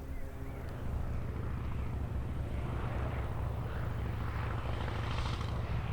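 Light propeller aircraft running close by: a steady piston engine drone that steps up in loudness just under a second in, with a growing rush of propeller and air noise in the second half.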